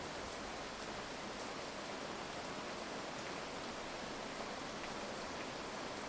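Steady heavy rain: an even hiss with faint ticks of individual drops.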